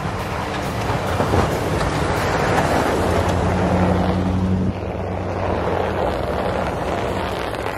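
Plow truck driving past with a steady engine hum and tyre noise on snow, swelling as it comes close and dropping suddenly a little past the middle.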